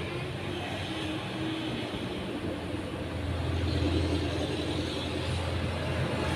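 Steady low rumble of background noise with a low hum, growing louder about halfway through.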